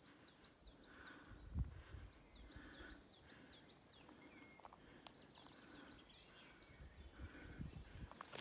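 A bird singing faintly, three runs of quick, hooked chirps repeated in a row. Soft footstep thuds on a dirt trail come in about a second and a half in and again near the end.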